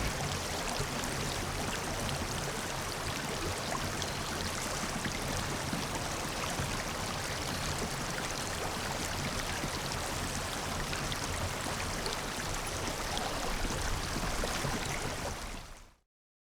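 Steady rush of flowing water, like a stream, that fades out near the end.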